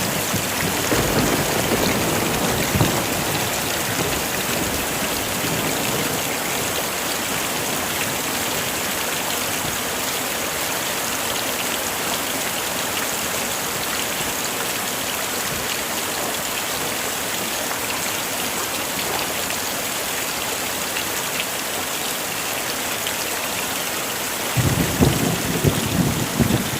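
Heavy rain falling steadily. Low rumbles of thunder come in the first few seconds and again near the end.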